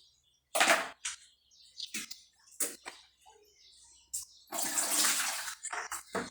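Water splashing and pouring in two bursts, a short one about half a second in and a longer one of about a second near the end, with short knocks in between, as the inside of a defrosted refrigerator is washed.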